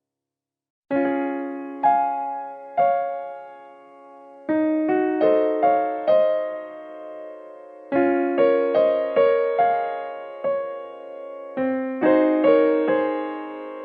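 Background music: a slow, gentle piano melody of single notes and chords, each note struck and then fading, starting about a second in after a brief silence.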